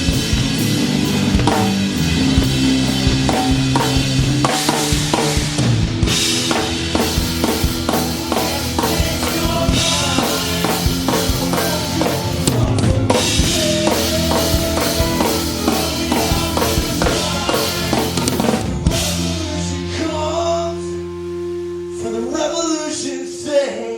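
Live band playing an instrumental passage, with the drum kit loud and close: kick, snare and cymbals over guitar and bass. About 19 seconds in, the drums stop and held guitar and bass notes ring on.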